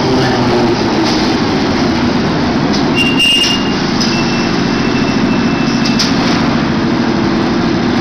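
London Underground 1967 Stock Victoria line train running into the platform, a steady loud rumble with a low hum. A thin high whistle sounds from about three to six seconds in, with a short burst of clicks as it starts.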